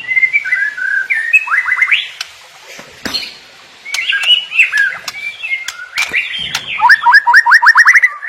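White-rumped shama singing a varied song of whistled and slurred phrases, with a fast run of rising notes near the end, broken by a few sharp clicks.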